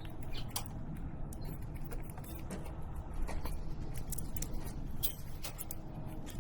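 Outdoor ambience: a steady low rumble with many short, sharp clicks and ticks scattered irregularly through it.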